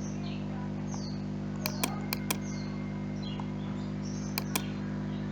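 Computer mouse clicked in three quick double-clicks over a steady low hum, with birds chirping faintly in the background.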